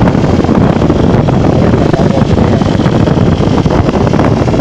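Honda NXR 150 Bros motorcycle ridden at speed, its single-cylinder engine buried under a steady, loud rumble of wind on the microphone.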